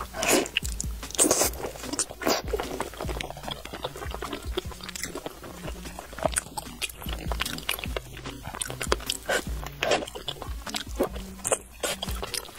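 Close-miked eating sounds of biting into and chewing braised pig's trotter: sticky, wet smacks and clicks from the gelatinous skin, over soft background music.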